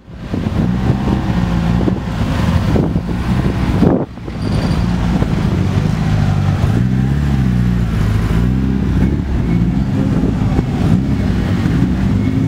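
Car engine running, its pitch rising and falling repeatedly as the revs change, over a low rumble.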